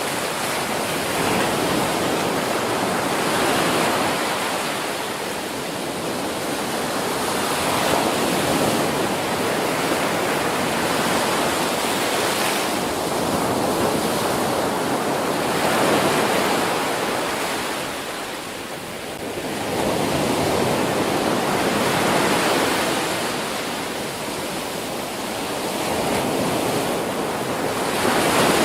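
Ocean waves breaking on a shore: a continuous rush of surf that swells and falls back every few seconds.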